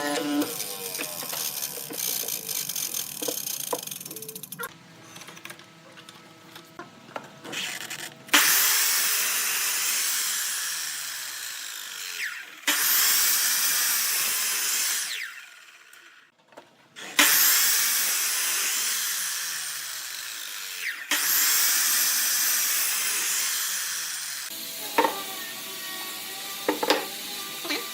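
A power tool working wood in four bursts of steady noise, each a few seconds long, starting and stopping sharply. Lighter knocks and scraping of handled wood come before and after the bursts.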